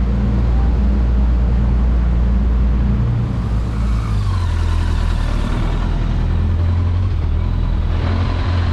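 An engine running steadily, its low hum changing pitch about three to four seconds in.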